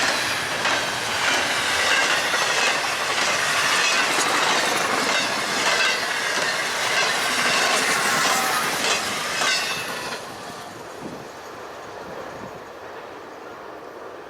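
BNSF freight train passing at speed: a loud rush of steel wheels on rail with repeated clacks over the rail joints. The sound drops away sharply about ten seconds in.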